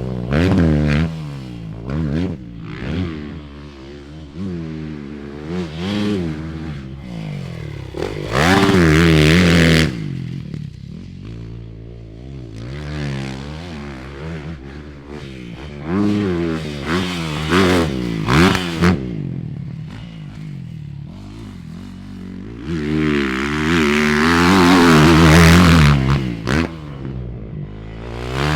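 Motocross dirt bike engines revving up and backing off again and again as they ride around the track. The engines are loudest in two longer full-throttle pulls, about a third of the way in and again near the end.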